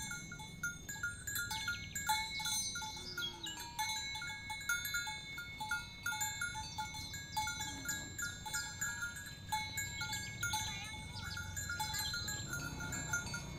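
Small bells clinking irregularly at a few fixed pitches, with brief high chirps throughout.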